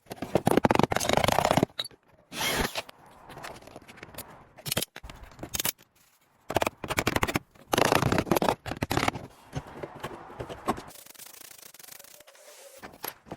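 Hand work on an aluminium car fender: a run of scraping and rubbing bursts of metal with scattered sharp clicks, stopping and starting abruptly.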